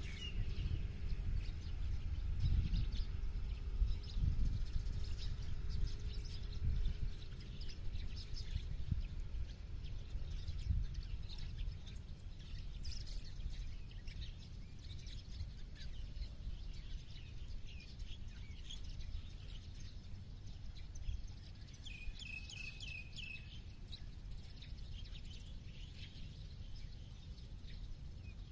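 Small birds chirping and calling here and there, with a quick run of chirps about two-thirds of the way through. Under them a steady low rumble, louder than the birds at first, slowly eases off.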